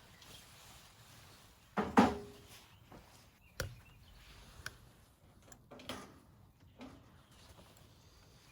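A few separate knocks and clunks of objects being handled, the loudest about two seconds in and the rest spread out and fainter.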